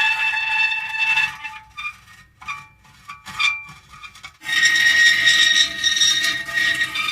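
Metal creaking: long, drawn-out squealing tones, broken into short creaks and gaps for a few seconds in the middle, then a sustained squeal starting again about four and a half seconds in.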